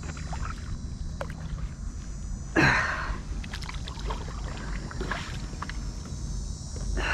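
Kayak paddle strokes in the water, with two louder splashes, one about two and a half seconds in and one near the end, over a low steady rumble.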